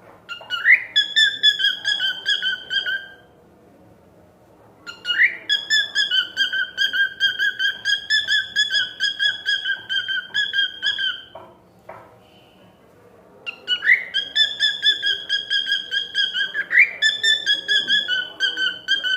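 Cockatiel singing: three long whistled phrases, each opening with a quick upward sweep and then a fast warbling note held for several seconds, with short pauses between.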